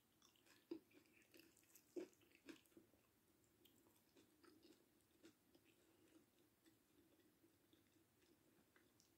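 Faint close-miked chewing of fried fish and rice: soft, irregular wet mouth clicks and smacks, with a few sharper clicks in the first three seconds.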